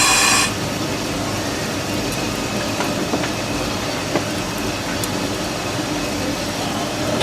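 Steam locomotive cab noise: a loud hissing blast cuts off about half a second in, leaving the steady rumble and rattle of the small Baldwin locomotive rolling along the track, with a few light clicks.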